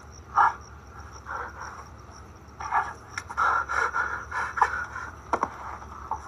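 People panting and breathing hard in irregular gusts, the breaths coming thicker from about halfway through, the sound of exhaustion during a timed physical endurance punishment.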